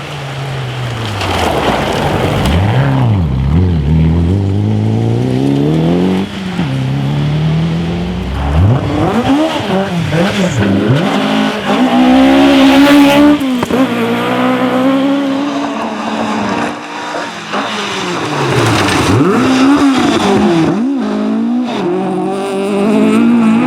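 Historic rally car at full throttle on a stage, its engine note climbing and falling again and again as the driver accelerates, lifts and changes gear.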